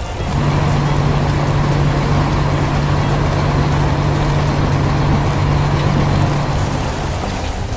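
A heavy construction vehicle's engine running steadily with a low hum. It starts just after the beginning and eases off near the end.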